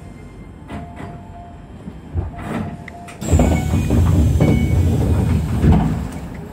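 Keisei electric train running on rails, heard from the driver's cab: a few sharp clicks of wheels over rail joints and a faint tone that comes and goes. About three seconds in, a sudden loud rushing rumble starts, lasts about three seconds, then falls away.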